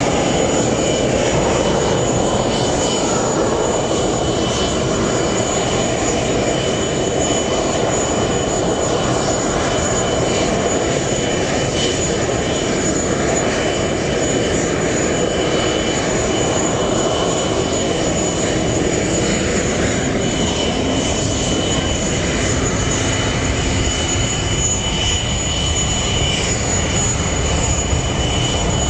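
English Electric Lightning's twin Rolls-Royce Avon turbojets running steadily: a continuous rumble with a high whine held on two steady pitches.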